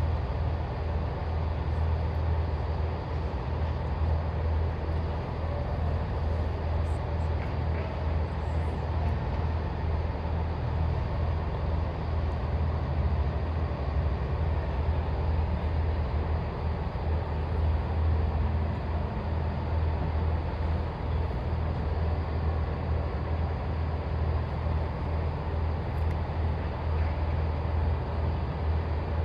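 Class 165 Turbo diesel multiple unit standing at the platform with its diesel engines idling, a steady low rumble.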